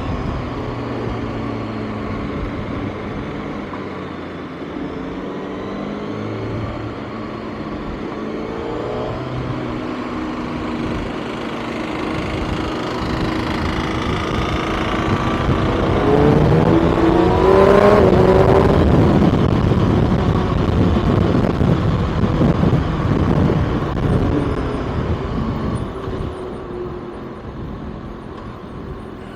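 Motorcycle engine running on the move under wind and road noise. A little before halfway the engine note climbs steadily in pitch to its loudest point, then eases off and fades toward the end.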